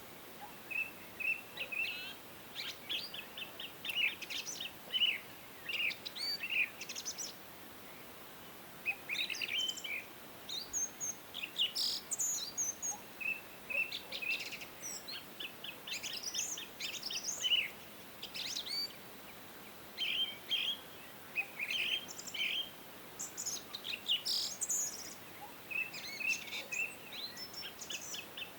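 Several songbirds singing, short quick phrases of high chirps and trills repeating and overlapping, over a faint steady hiss.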